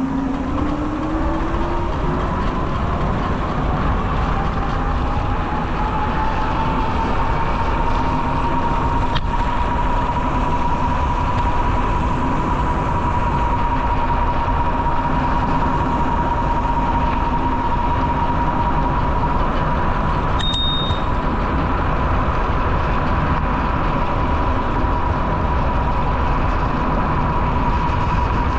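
Steady rush of wind and rolling noise while riding, with a whine that climbs in pitch over the first several seconds and then holds steady. A brief high click sounds about two-thirds of the way through.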